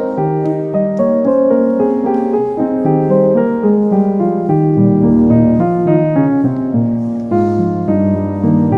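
Background piano music, a quick run of notes over a low bass line.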